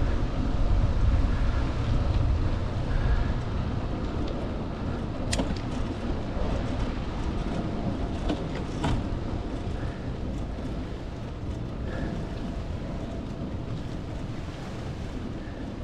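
Wind rumble on the microphone and rolling noise of a bicycle being ridden, loudest in the first few seconds and easing off after. A couple of sharp clicks come about five and nine seconds in.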